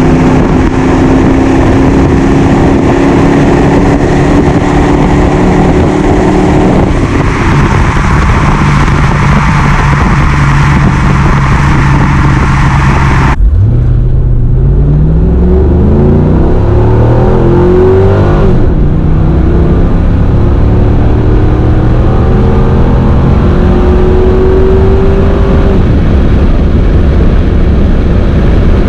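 1999 Camaro's 5.7-litre LS1 V8 running under load with heavy wind and tyre noise. About halfway through the sound changes abruptly, and the engine then pulls hard, its note climbing as the car accelerates.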